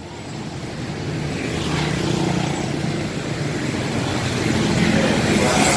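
Intercity coach bus engine running as the bus pulls out, a low steady drone growing steadily louder as it comes closer.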